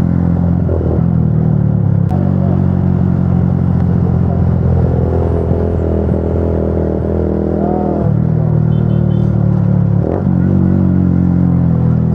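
Motorcycle engine running steadily at highway speed under the rider, with a shift in its engine note about eight seconds in.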